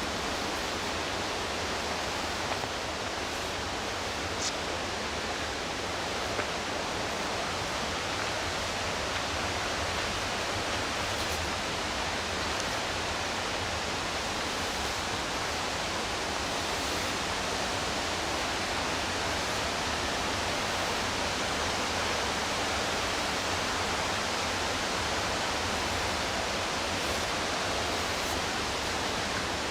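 The McKenzie River rushing steadily over whitewater, a constant even roar of falling water. About four seconds in there is one brief high-pitched sound.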